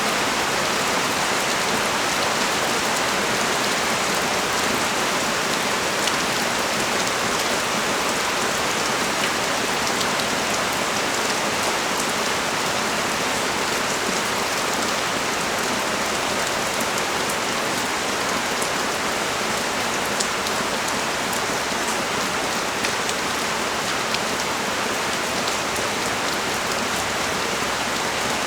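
Rain falling steadily: a dense, even hiss with many small, sharper drop ticks scattered through it.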